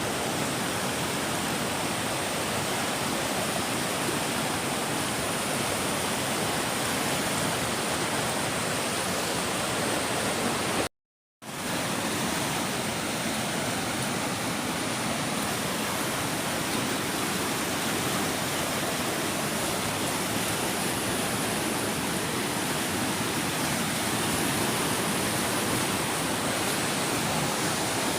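Steady, even rush of water in heavy rain, broken by half a second of silence about eleven seconds in.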